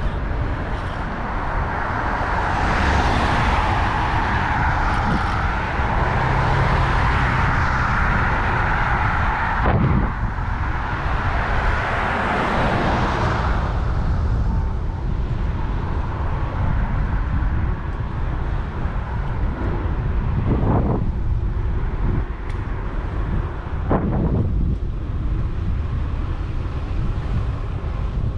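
Street traffic heard from a moving bicycle, with wind rumbling on the microphone. A vehicle going by is loudest over the first half, and a few shorter swells follow later.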